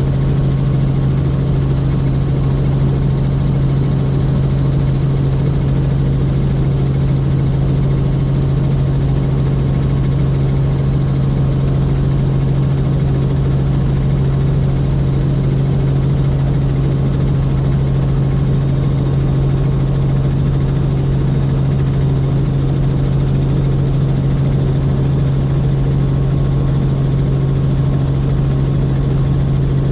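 Helicopter in flight: the rotor and engine make a steady, unchanging drone with a strong constant low hum.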